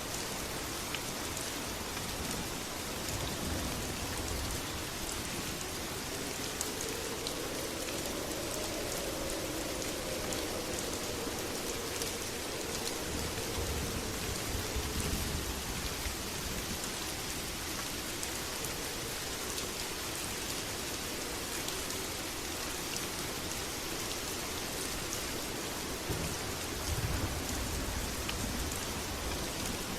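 Steady, heavy rain falling, a dense even hiss with scattered drop ticks. Low rumbles swell up a few times, most strongly about a quarter and nine-tenths of the way through.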